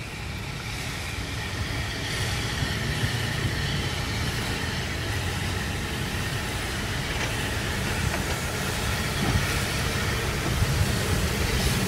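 Train running, a steady low rumble with a hiss, growing gradually louder.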